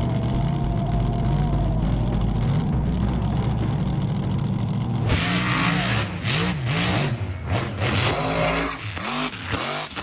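Mega truck engines running steadily, then about five seconds in they are revved hard, the pitch rising and falling again and again over a loud rush of noise.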